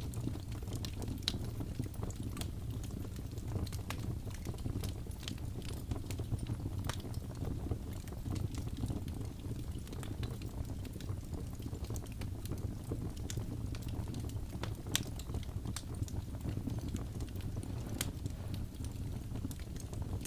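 Wood fire burning: a steady low roar of flames with scattered sharp crackles and pops at irregular intervals.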